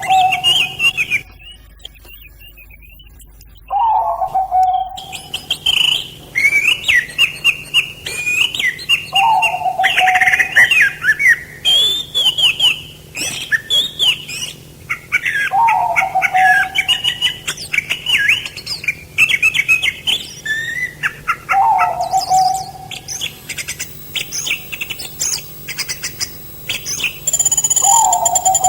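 Several songbirds chirping and calling in quick, overlapping phrases. A lower, falling call repeats about every six seconds, with a brief lull a couple of seconds in.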